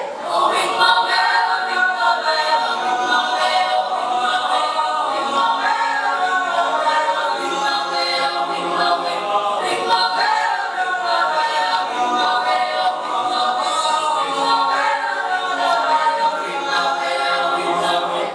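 Mixed choir singing a cappella in several voice parts, unaccompanied, with sustained, moving chords.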